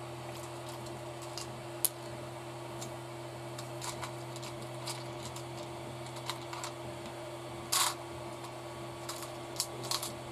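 Small RC kit parts such as spacers and flange tubes clicking and tapping as they are handled on the workbench, with a sharper click about two seconds in and a short rattle near the eight-second mark, over a steady low hum.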